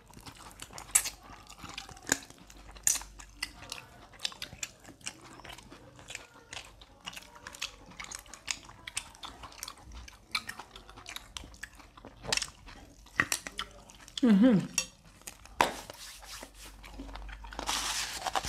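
Close-miked eating sounds of grilled chicken and rice being eaten by hand: chewing with many small wet clicks and lip smacks. A short falling vocal sound comes about three-quarters of the way in, and a rustling noise builds near the end.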